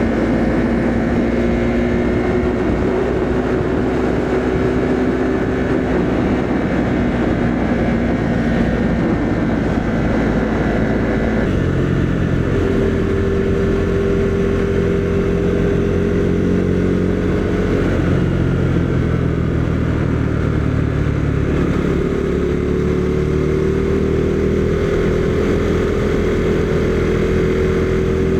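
Husqvarna Svartpilen 401's single-cylinder engine running on the road, heard from the bike with wind noise. About a third of the way in the engine note drops and then holds steady. Near the end it rises as the bike accelerates.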